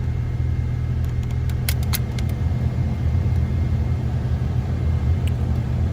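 Heater blower motor of a 2000–2004 Toyota Tacoma running, a steady low rumble with a few sharp clicks about 2 and 5 seconds in. It is the crunchy heater noise that the owner puts down to a failing blower motor or resistor.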